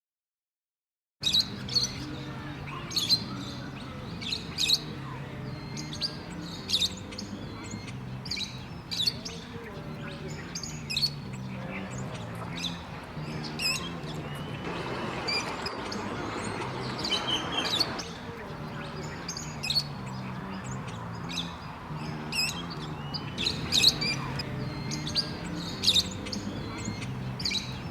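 Birds squawking and chirping in many short, sharp, high calls that start about a second in.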